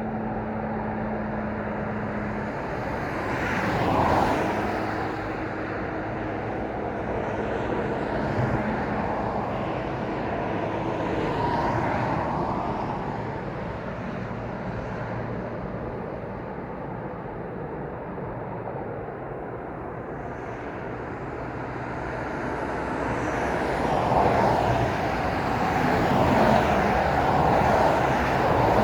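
Road traffic passing: a steady wash of tyre and engine noise that swells as each vehicle goes by, with one pass about four seconds in and a longer, louder run of vehicles near the end.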